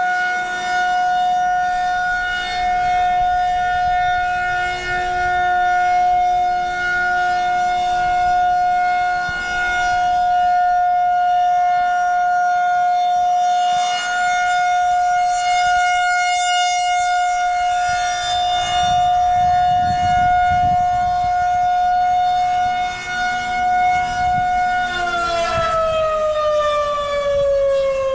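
Mechanical outdoor warning siren sounding a steady tone with waves of loudness as it rotates, then winding down with falling pitch about 25 seconds in.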